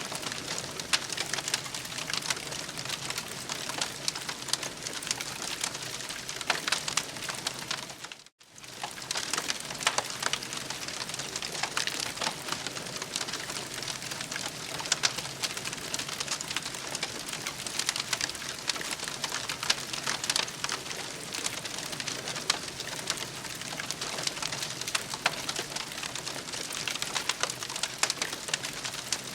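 Campfire crackling steadily with dense small pops and snaps, cutting out for a moment about eight seconds in.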